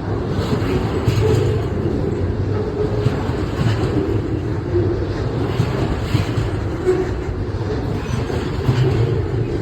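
Double-stack container freight train rolling past, a steady rumble of steel wheels on the rails with faint repeated clicks.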